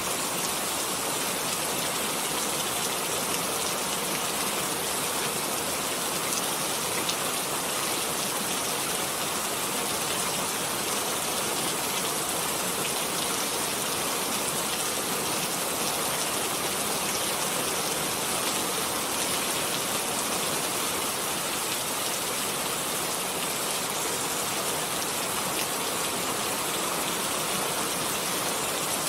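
Steady rainfall: an even hiss of rain with fine scattered drops pattering on a surface.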